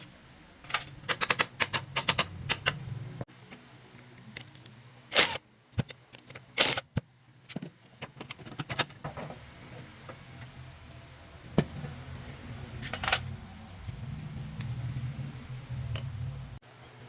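Metal tools clinking and tapping on car parts during hands-on repair work: irregular sharp clicks, some in quick runs, over a low hum that comes and goes.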